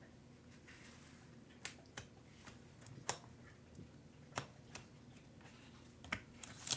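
Scattered sharp clicks and light taps of small screws and parts being handled, about seven in all at irregular intervals, with a louder cluster near the end.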